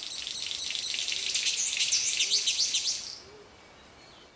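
Forest birds calling: a dense, high, fast chirping with quick up-and-down sweeps that swells and then stops about three seconds in, over a soft low hooting call repeated about once a second.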